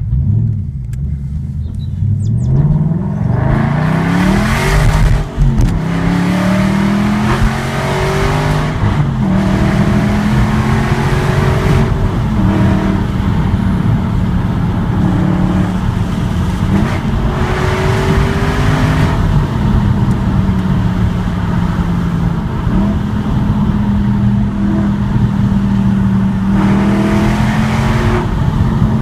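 Aston Martin V8 Vantage's V8 engine and loud aftermarket exhaust, heard from inside the car as it accelerates. The engine pitch climbs steeply over the first few seconds and drops sharply about five seconds in at a gear change. After that it holds at cruising revs, stepping up and down, with several louder surges as the throttle opens.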